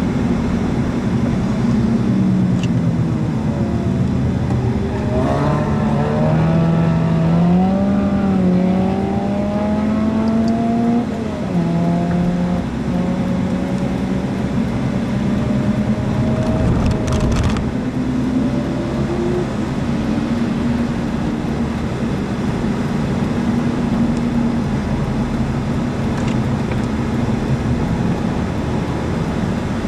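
Audi A4 TDI 170's 2.0-litre four-cylinder turbodiesel heard from inside the cabin at track pace, its engine note climbing and falling as the car accelerates and lifts, with a sharp drop about a third of the way in. A brief knock comes a little past halfway, over steady road and wind noise.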